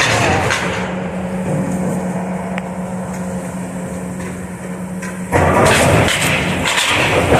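Heavy demolition machine's engine running steadily while it works on the building; about five seconds in, a loud, noisy crash of building material breaking and falling sets in.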